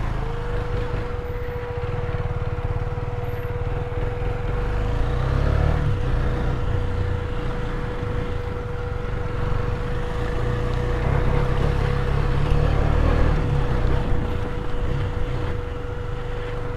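KTM Duke 250 single-cylinder motorcycle engine running as the bike rides a rough dirt track, with a heavy, uneven low rumble of wind on the microphone. A steady whine holds underneath throughout.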